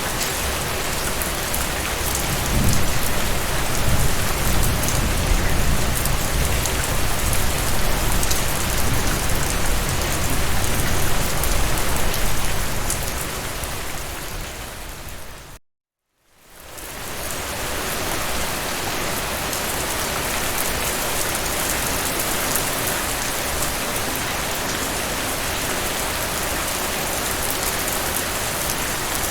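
Steady heavy rain falling on a surface, with a low rumble of thunder from a few seconds in. About halfway through the rain fades out to a moment of complete silence and fades back in, as at the splice of a looped recording.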